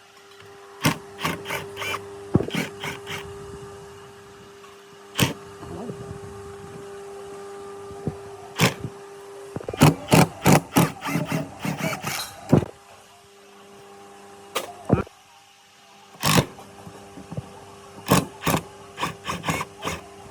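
Sharp knocks and taps in irregular quick clusters, over a steady hum that stops for a few seconds midway.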